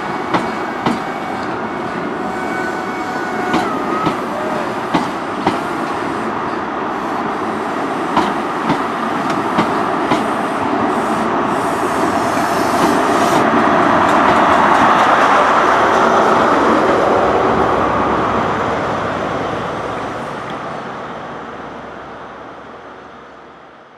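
InterCity 125 High Speed Train running past at low speed: its wheels click in pairs over the rail joints as the coaches go by. The sound swells to its loudest about two-thirds through as the rear Class 43 diesel power car passes, then dies away over the last few seconds.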